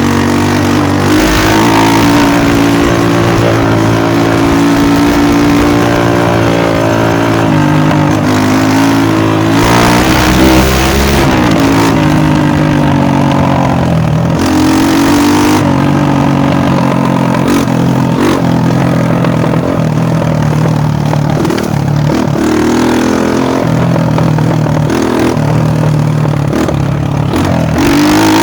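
Dirt bike engine running hard and revving, its pitch rising and falling again and again as the throttle is opened and closed.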